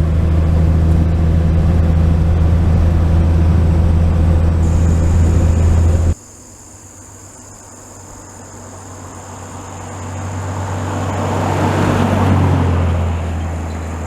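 1949 Chevy 3100 pickup's straight-six running steadily at cruise with road noise inside the cab; the sound drops off abruptly about six seconds in. After that a quieter rushing sound swells toward the end and eases off.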